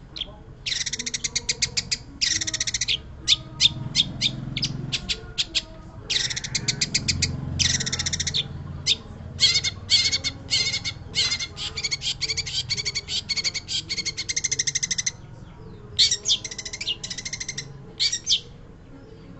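Long-tailed shrike (pentet) in full song: bouts of rapid, closely repeated chattering notes, broken by short pauses, stopping shortly before the end.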